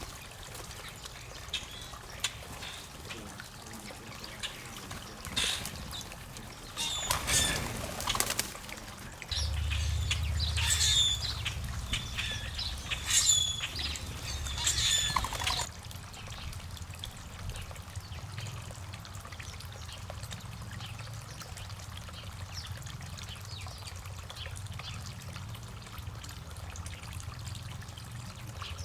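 Garden water feature trickling steadily into a small pond. In the middle stretch birds give short sharp calls among wing flutters and small clicks, with a low rumble underneath. After that only the trickle goes on.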